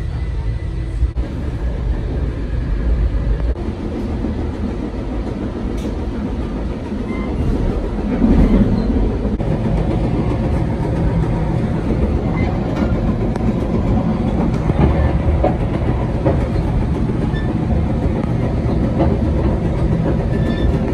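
Rumble and wheel clatter of a passenger train, heard from on board. It gets louder about eight seconds in, as another passenger car passes close alongside.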